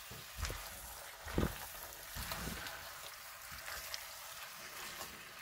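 Curry chicken and onions sizzling softly in an enamelled Dutch oven while a spatula stirs them, with a few dull knocks and scrapes of the spatula against the pot, the loudest about a second and a half in.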